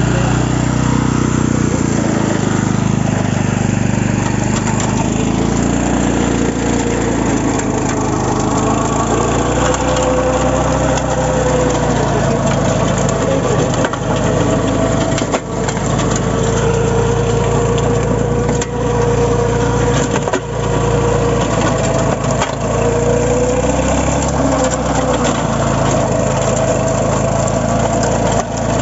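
Engine of a 12 HP mini power tractor (power weeder) running steadily, with a tone in it that slowly wavers up and down in pitch.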